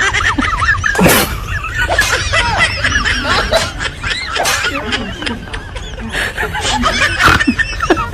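People laughing and snickering, several short high-pitched giggles overlapping.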